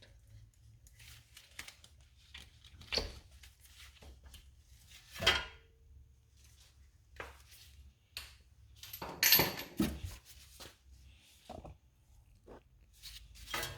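Scattered metallic clinks and knocks of hand tools and engine parts being handled during engine work, a few separate knocks with quiet between, the loudest a short cluster about nine seconds in.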